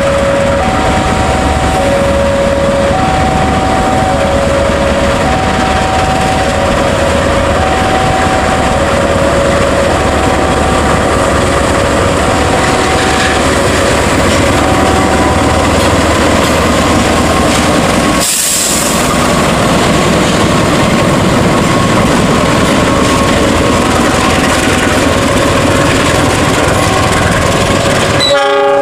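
KAI CC206 diesel-electric locomotive hauling cargo wagons past, its engine running and its wheels clattering on the rails. Over it, an electronic warning alarm repeats two alternating tones, about one pair every two seconds.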